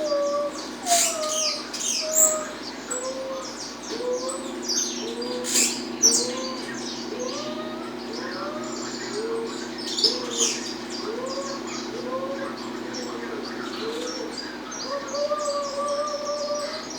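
Saffron finch (Peruvian canário-da-terra) singing in sharp, cracking 'estalo' notes, with loud bursts about 1, 2, 6 and 10 seconds in. Beneath it a softer, lower arched call repeats below a steady hum, both fading out near the end.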